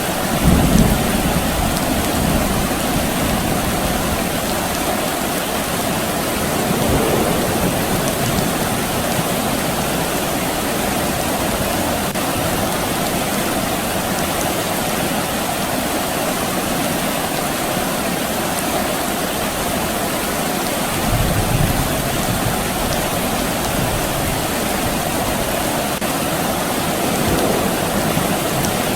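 Steady soft rain falling, an even hiss and patter. There are a few brief low rumbles, the clearest about a second in and again around three-quarters of the way through.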